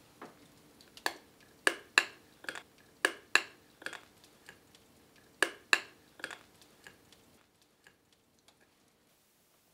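A run of sharp clicks, many coming in quick pairs, loudest in the first few seconds, then thinning out into faint ticks near the end.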